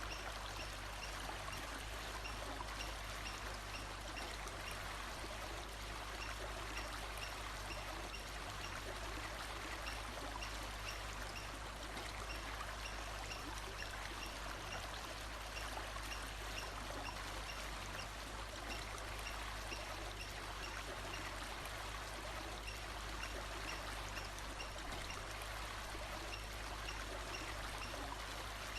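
Running water flowing steadily, like a forest stream, with faint short high pips repeating at an even pace over it.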